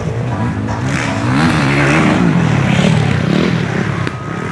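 Motocross dirt bike engines revving, their pitch rising and falling as the bikes accelerate and back off, louder through the middle.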